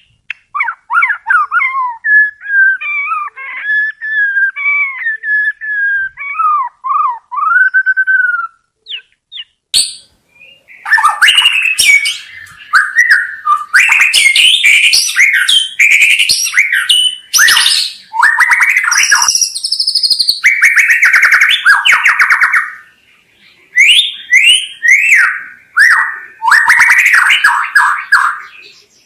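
White-rumped shama (murai batu) singing. Softer gliding whistled phrases for the first several seconds, then, after a short pause, a loud, fast, varied song of rapid trills and harsh notes.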